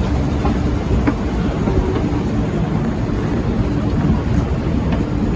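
MTR East Rail line R-Train electric train running, a steady low rumble with a steady hum.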